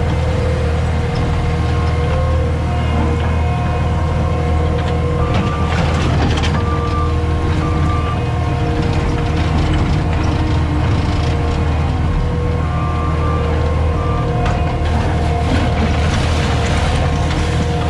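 Diesel engine of a CAT 259D compact track loader running steadily with a deep drone, with a few rattles and scrapes about six seconds in and again near the end. Background music plays over it.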